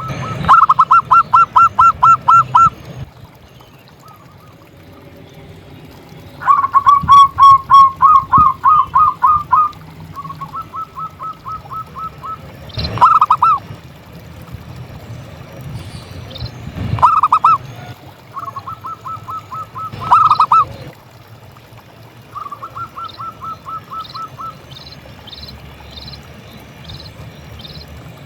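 Zebra dove (perkutut) cooing in quick series of repeated notes, about six or seven a second. Loud series alternate with softer ones, and a few short loud phrases come in between.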